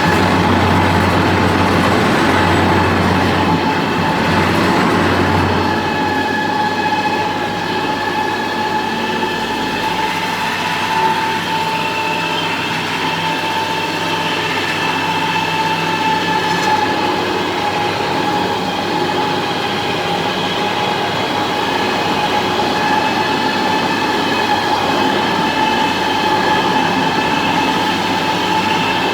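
Concrete floor grinder running steadily as it grinds the concrete surface of a ramp: a continuous grinding noise with a steady whine through it, and a low hum that drops away about six seconds in.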